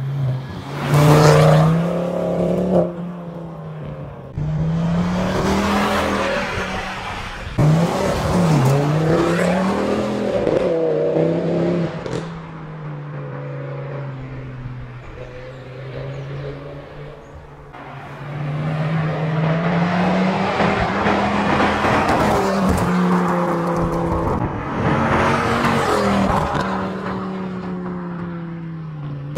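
Ford Focus ST225's turbocharged five-cylinder engine being driven hard: repeated acceleration and lift-off, its pitch climbing and falling several times, with louder pushes near the start, in the middle and through the last third.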